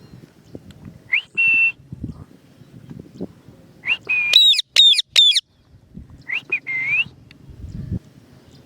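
Pet parrot whistling in three short bursts: a rising, then held note about a second in, a louder run of whistles with several quick upward swoops in the middle, and another short whistled phrase near the end.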